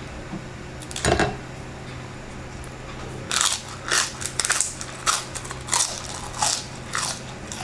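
Crispy fried chicken skin crunching as it is bitten and chewed: one crunch about a second in, then a quick run of about eight loud crunches from about three seconds in.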